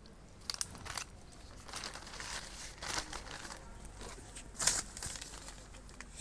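Intermittent rustling and crinkling of plastic packaging being handled, in short bursts, the loudest about four and a half seconds in.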